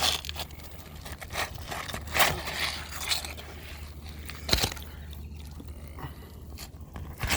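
Scraping and prying of a tool worked under asphalt roof shingles to break them loose from their sealant strips, with four sharp knocks a little over two seconds apart.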